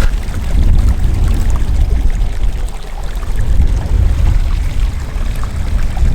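Wind buffeting the microphone: a loud, gusting low rumble with a rushing hiss over it, dipping a little around three and five seconds in.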